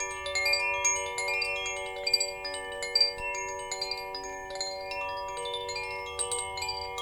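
Wind chimes ringing continuously, many tubes struck at irregular moments so their tones overlap and hang on.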